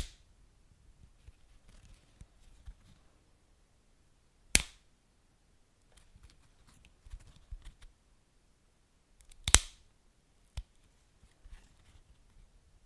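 Wood fire crackling: sparse sharp pops, three loud ones about five seconds apart with the last the loudest, and faint ticks and snaps between.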